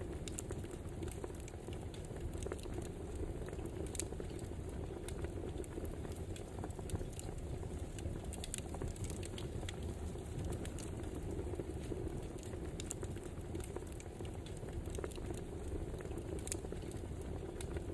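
Wood fire burning: a steady low rush with many small, irregular crackles and pops.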